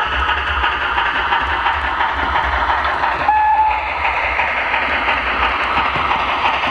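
OO gauge model steam locomotive running with a steady hiss and faint ticking, with a short high whistle toot about three seconds in.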